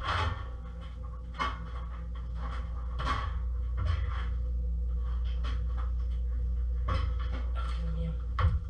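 Kitchen pot and utensils being handled, with a few scattered knocks and clatters over a steady low hum.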